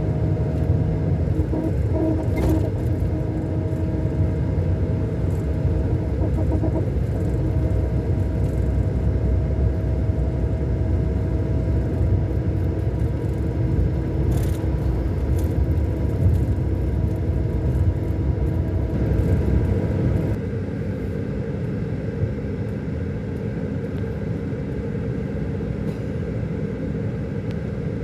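Scania K400 Euro 5 inline-six diesel coach engine running under way, a steady rumble with a tonal engine note. About twenty seconds in the engine note drops away and the sound gets quieter.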